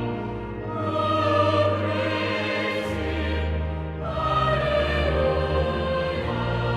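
Choral music, voices singing long held chords over a low bass note that changes every two to three seconds.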